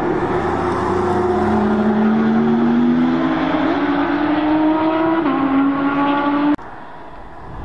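Porsche Panamera prototype's engine accelerating on track, its note climbing steadily, then dropping in pitch about five seconds in as at an upshift. The engine sound cuts off suddenly about six and a half seconds in, leaving a much quieter rush of wind.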